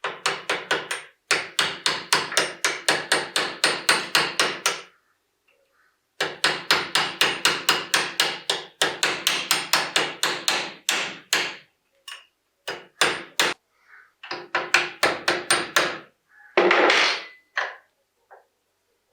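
A hammer striking repeatedly in fast runs of about five blows a second, each run lasting a few seconds with short pauses between. Near the end come a few single blows and one short burst of noise.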